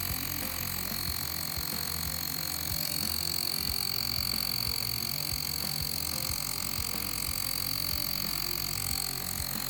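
Mi portable electric tyre inflator's small battery-powered compressor running steadily with a high whine over a low hum, air blowing strongly out of its nozzle.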